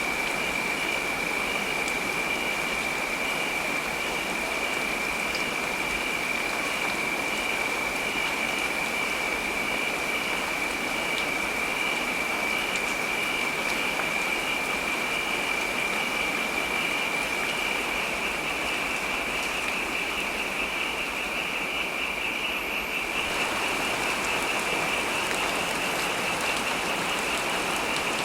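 Heavy rain falling as a steady, even hiss, with a thin steady high-pitched tone running through it. The texture shifts slightly about twenty-three seconds in.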